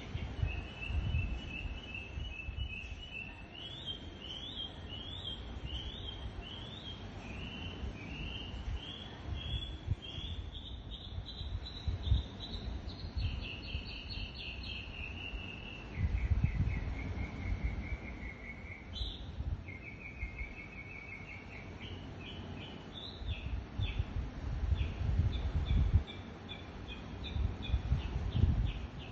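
A songbird singing a long, unbroken series of fast repeated notes, switching to a new phrase at a different pitch every few seconds. A low rumbling noise comes and goes underneath, heaviest in the second half.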